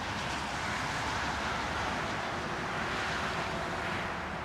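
Road traffic: a passing car's tyre and engine noise, a steady rush that swells a little past the middle and then eases off.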